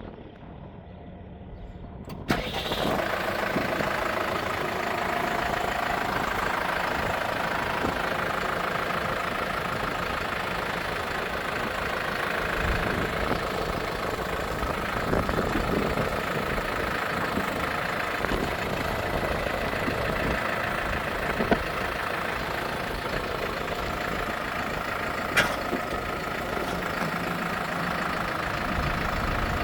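Diesel engine of a Case 95 MFWD tractor catching about two seconds in, then idling steadily, with a couple of short clicks late on.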